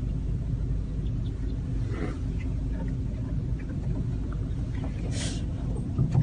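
Steady low rumble of a car running, heard from inside the car, with a few brief high bird calls about two and five seconds in from a large flock of black birds.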